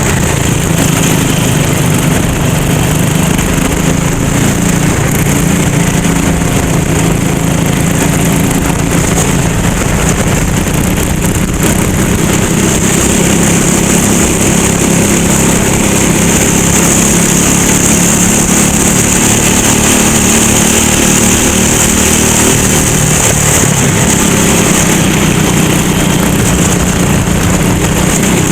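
Go-kart engine running continuously, its pitch wavering slightly up and down.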